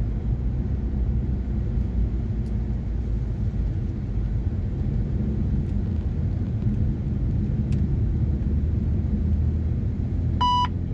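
BMW M240i's turbocharged straight-six and tyre noise heard from inside the closed cabin while driving: a steady low drone that grows a little stronger near the end. Just before the end a short electronic beep sounds once.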